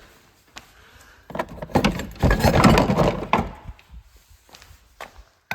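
Clattering and rattling of motorcycle parts being moved and handled, loudest for about two seconds in the middle, with scattered clicks and knocks around it.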